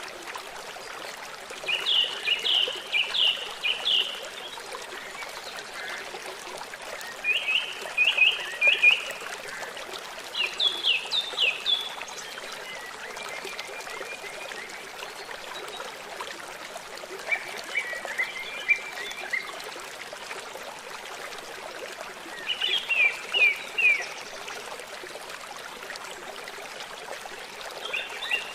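A songbird singing short phrases of quick, rapidly repeated sliding notes, each phrase lasting a second or two, about six times with pauses of a few seconds between, over a steady trickle of running water.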